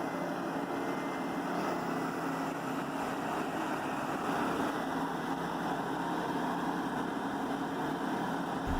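Morbark 5048X horizontal grinder running steadily, its engine and grinding noise holding a constant level; a deeper rumble comes in just before the end.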